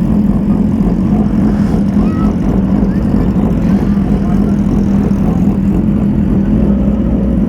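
Yamaha R6 inline-four motorcycle engine running at a steady, even speed with no revving, under a heavy low rumble of wind buffeting the helmet microphone.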